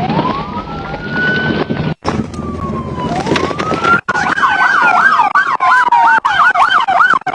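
Police car sirens: a wail winding up near the start and again about three seconds in, then switching to a fast yelp from about halfway through while another siren tone slides down beneath it. Sharp clicks and knocks sound throughout.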